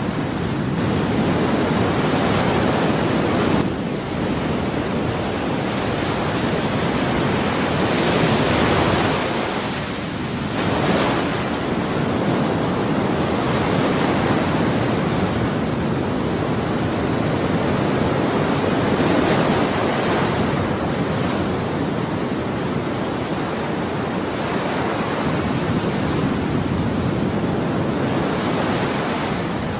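Ocean waves washing onto a shore in a continuous rush, swelling and easing every few seconds as waves break.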